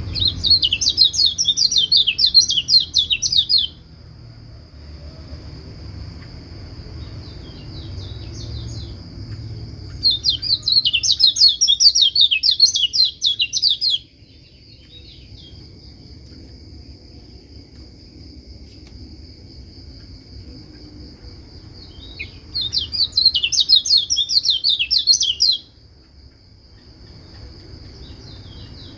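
Kecial kuning white-eye singing three bursts of rapid, high chattering song, each about three seconds long, with long pauses between. A steady high whine runs underneath.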